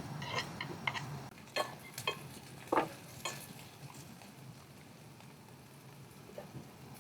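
Food sizzling in a pan, with a few sharp clicks of utensils in the first few seconds.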